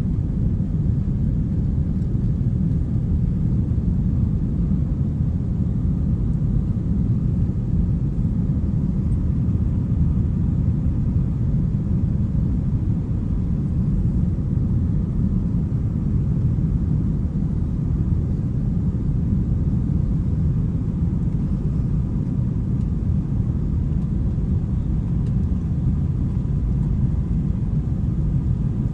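Steady low rumble of an Airbus A321-200 in flight, jet engines and airflow, with a faint steady whine above it.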